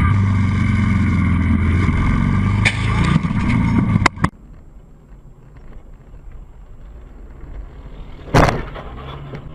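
A vehicle engine running loudly and steadily, cut off suddenly after about four seconds with a couple of sharp clicks. Later there is a single loud bang.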